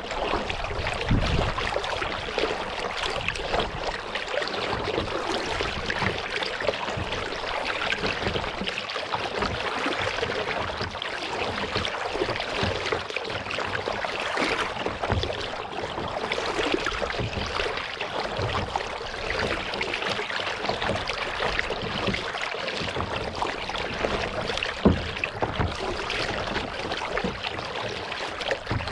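Kayak being paddled: water splashing and trickling off the paddle and along the hull in a steady wash, with a couple of low bumps, one about a second in and a sharper one near the end.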